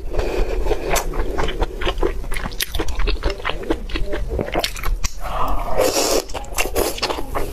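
Close-miked chewing of spiced lamb intestines: many short wet clicks and smacks of mouth and teeth. About five seconds in comes a longer wet stretch as a strand of intestine is drawn into the mouth.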